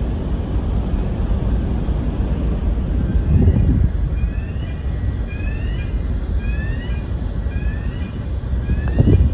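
Steady low rumble of a ferry under way, swelling briefly twice, with a faint rising chirp repeating about once a second from about halfway through.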